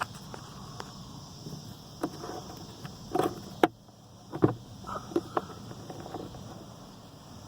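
Scattered small clicks and knocks from hand work on a car's glove box: the remaining screws being undone and handled. The loudest knocks fall a little past the middle.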